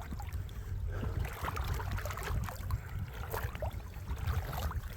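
Creek water sloshing and splashing, with scattered small ticks, over a low steady rumble.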